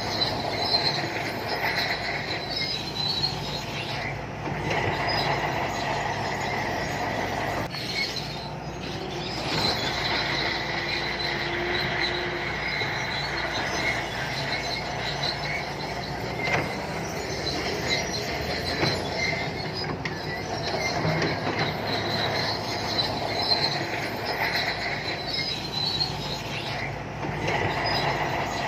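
Shantui crawler bulldozer working: its diesel engine running steadily while the steel tracks give a continuous high squeal and clatter.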